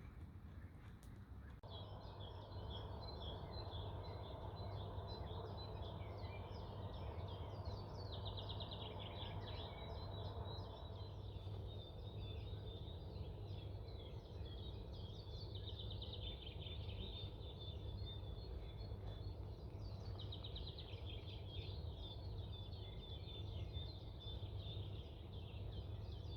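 Small birds singing rapid trills and chirps, one phrase after another, over a faint steady low background noise.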